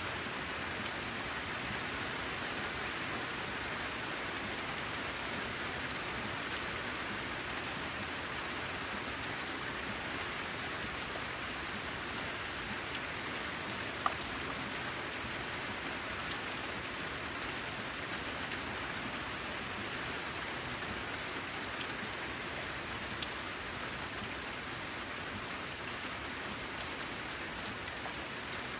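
Steady rain falling, with scattered single drops ticking through the even hiss and one sharper tick about fourteen seconds in.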